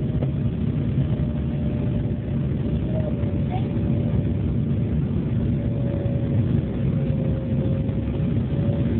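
Embraer E-175 jet engines running, a steady low rumble with one steady whine above it that sinks slightly in pitch, as heard inside the aircraft.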